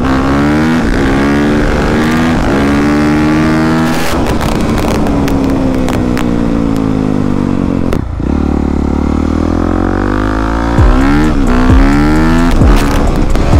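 Dirt bike engine accelerating and shifting, its pitch repeatedly rising and dropping. It eases off briefly about eight seconds in, then revs up again, with a few thumps near the end.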